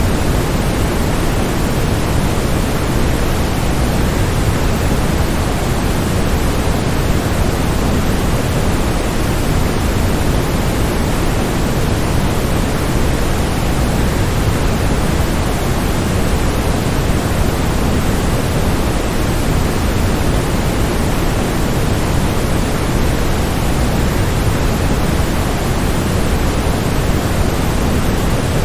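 Steady, unbroken rushing of a waterfall, even and unchanging, with most of its weight in the low end.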